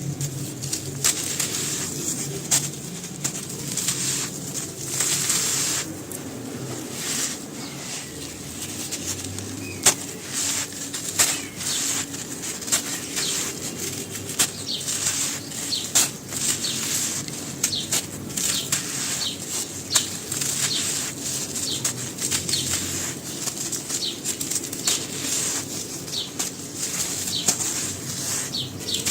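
Dry, black, grainy crumbling material with white stones on top being broken and crumbled: a continuous crisp, gritty crunching and rustling, broken by frequent sharp snaps at irregular intervals.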